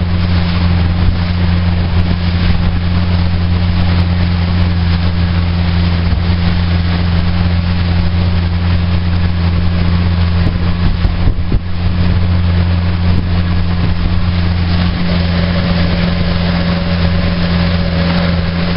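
A RIB's 40 bhp outboard engine running steadily at speed, with a loud rush of wind and water over it and a brief dip about eleven seconds in.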